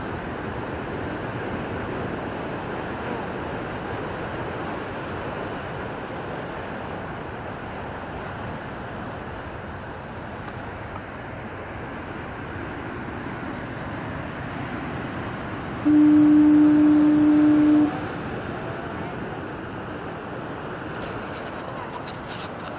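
Heavy Atlantic surf rushing steadily, with a single two-second blast of a lighthouse foghorn, one low steady tone, about two-thirds of the way through.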